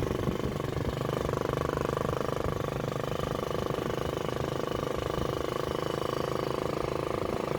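An engine running steadily at an even speed with a fast, even pulsing.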